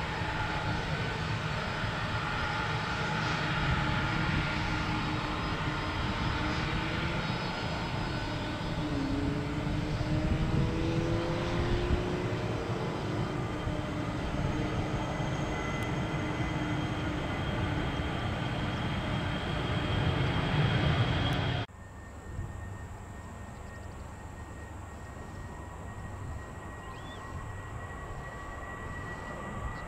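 Jet airliner engines running loud, with whining tones that slide in pitch as the aircraft moves. About two-thirds of the way through, the sound cuts off abruptly to a quieter, steady jet hum with a high whine.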